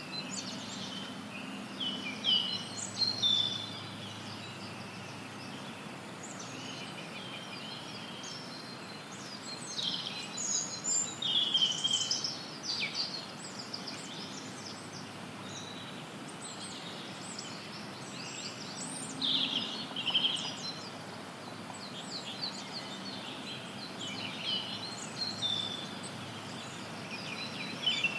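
Forest songbirds chirping and calling in scattered bursts, several short notes at a time, over a steady hiss of added white noise.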